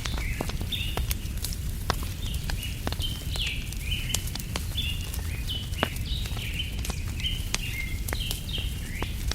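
Campfire crackling with scattered sharp pops over a steady low rumble, while a bird chirps over and over in short, quick notes.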